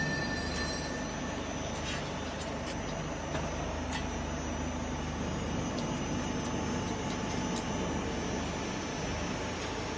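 Screw-type potato peeling and washing machine running: a steady motor and roller hum, with a few sharp knocks from the potatoes tumbling through it.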